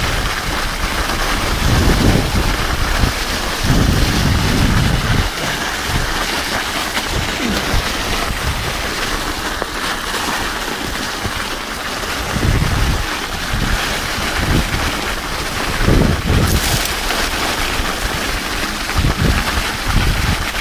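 Mountain bike riding over an icy trail on studded tires: a steady rush of wind on the microphone mixed with tyre noise, with several heavy low thumps from bumps.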